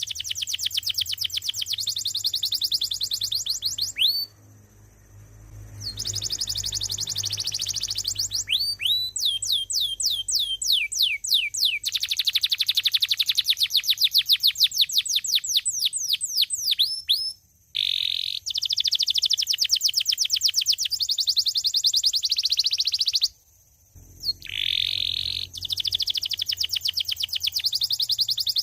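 Domestic canary singing: long rolling trills of very rapid repeated notes, mixed with phrases of slower falling whistled notes. There are a few short pauses between phrases.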